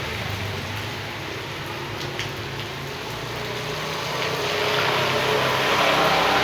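Steady rush of flowing rainwater runoff, with a vehicle's engine running underneath. The engine grows louder over the last couple of seconds as the vehicle draws near.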